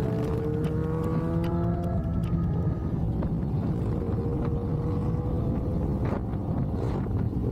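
Harley-Davidson motorcycles riding in a group at road speed: a steady engine rumble with wind and road noise, and an engine note rising gently over the first two seconds as the bikes accelerate.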